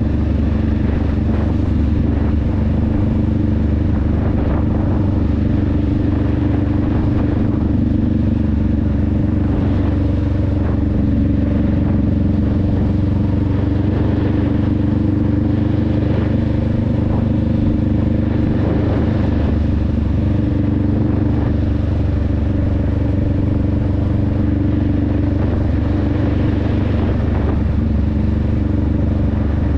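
2021 Honda Rebel 500's parallel-twin engine and exhaust running at a steady cruise, its pitch holding nearly constant with no big revs or shifts.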